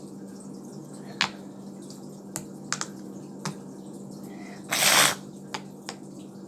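A handheld fidget toy being worked in the hands: scattered sharp clicks, then a short, louder burst of noise about five seconds in, over a steady low hum.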